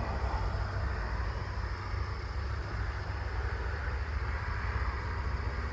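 Truck-mounted crane's diesel engine idling, a steady low rumble heard from inside the cab.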